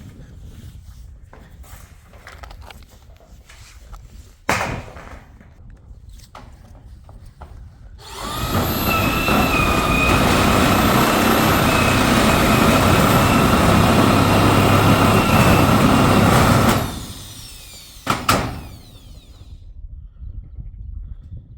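A small motorised tool runs steadily for about nine seconds, starting about eight seconds in and stopping suddenly, with a sharp knock shortly before it starts and another just after it stops.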